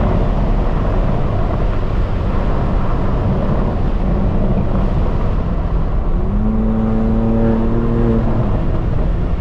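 Straight-piped BMW M4 Competition twin-turbo inline-six running hard with a loud, dense exhaust rumble. Near the end it holds a steady droning note for about two seconds.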